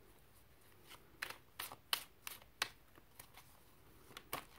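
A deck of tarot cards being shuffled by hand: about ten faint, irregular snaps and taps of card stock starting about a second in.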